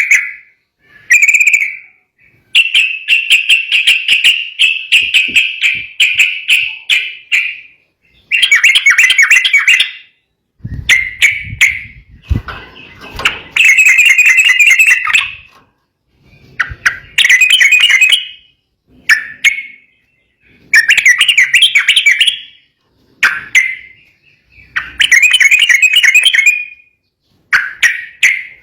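Yellow-vented bulbul singing agitatedly: loud, rapid chattering phrases of one to two seconds each, repeated over and over with short pauses between them.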